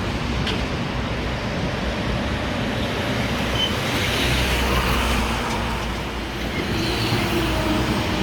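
Steady rumble and hiss of motor traffic, an even drone with no single vehicle standing out.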